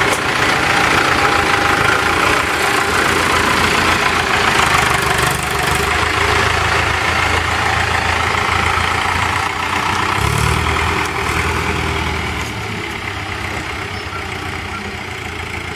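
Mahindra Arjun tractor's diesel engine running steadily, with a brief low swell about ten seconds in and a little quieter near the end.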